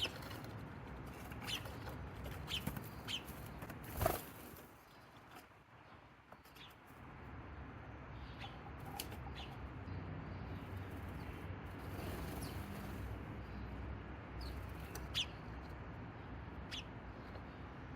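Small birds giving short, scattered single chirps. About four seconds in there is a brief loud flutter of wingbeats as a bird takes off, the loudest sound in the clip.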